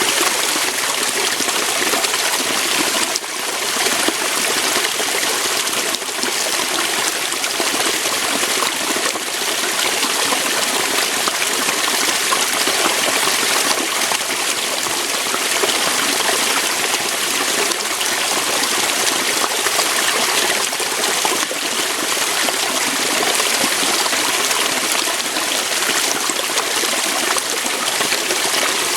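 Small waterfall, water splashing and rushing over rocks in a steady, even hiss.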